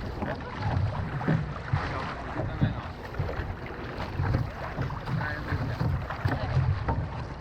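Outrigger canoe under way on the water, with wind buffeting the microphone in low swells about once a second over a steady wash of water noise.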